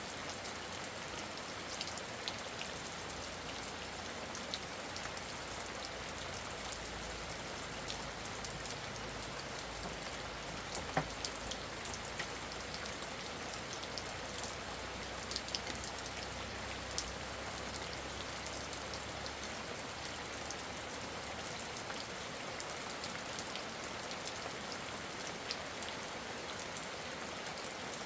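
Steady rain falling, an even hiss with scattered sharp drop ticks throughout and one louder tick about eleven seconds in.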